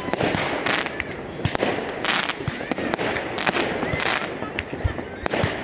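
Fireworks going off: an irregular run of sharp bangs mixed with hissing crackle, several bursts a second.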